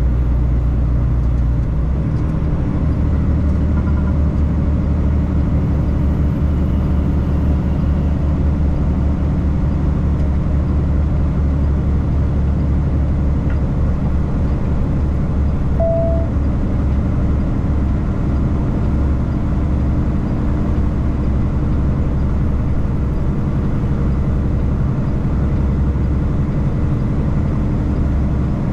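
Tractor-trailer truck driving on the road: a steady, loud low drone of diesel engine and road noise. The drone's pitch shifts about two seconds in, and a short beep sounds about halfway through.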